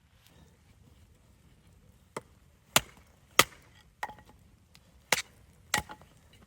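Wood being chopped: six sharp strikes, four in quick succession from about two seconds in, then two more a second later.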